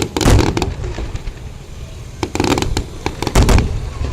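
Fireworks going off: deep booms near the start and again about three and a half seconds in, with clusters of sharp crackling pops between.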